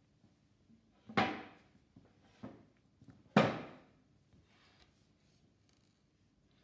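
Three knocks on a hard surface, about a second apart, the first and last loudest, each ringing briefly before fading.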